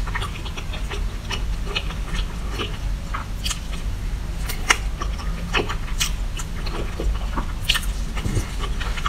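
Close-miked chewing of a soft, cream-filled chocolate cake: irregular wet mouth clicks and smacks.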